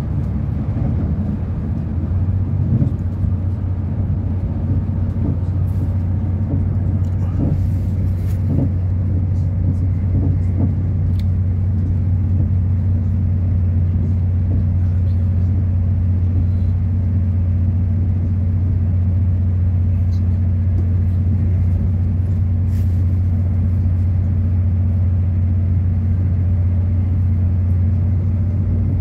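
Inside a diesel passenger train running at speed: a steady low engine drone over rumbling wheels and track, which settles in about two seconds in. A few faint clicks sound over it.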